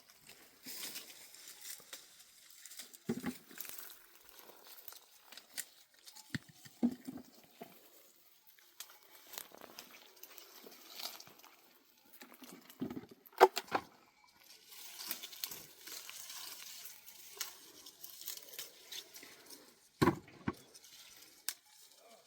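Intermittent rustling and crinkling with scattered knocks and a few louder thumps, the loudest about thirteen seconds in and again about twenty seconds in.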